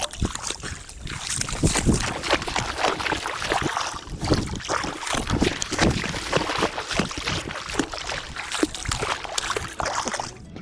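Water splashing and sloshing close by, in quick irregular strokes, as a just-caught smallmouth bass is handled and let go in the river shallows.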